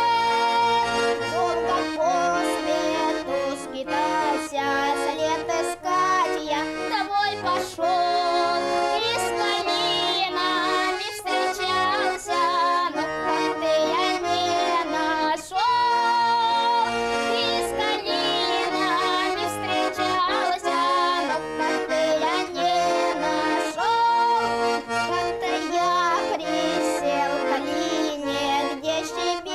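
Accordion playing an instrumental passage of a song, a melody over a rhythmic bass-and-chord accompaniment.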